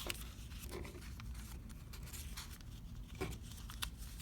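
Folded origami paper being handled and pinched: faint rustling and crinkling with a few short, soft clicks of paper.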